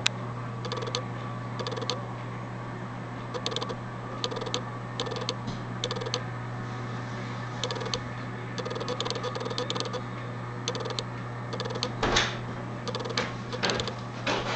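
Birds pecking at food on a wooden stump: irregular short taps and clicks, one or two a second, over a steady low hum, with a louder knock or rustle near the end.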